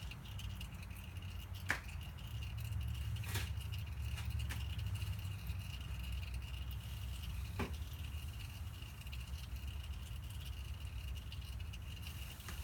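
Steady low background hum with a faint steady high whine, broken by a few scattered light clicks or clinks.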